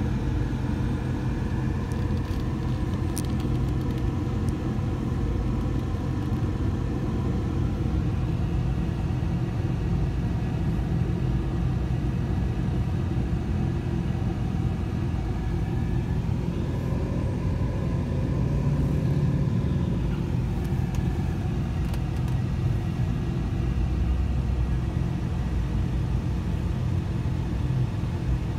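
Steady low rumble of an idling car engine and the traffic around it, heard from inside the car's cabin while it waits at a light, swelling slightly about two-thirds of the way in.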